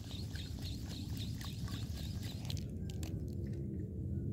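A bird chirping in a quick, even series of short high notes, about three a second, over a steady low rumble; the chirping stops about two and a half seconds in, leaving a few faint clicks.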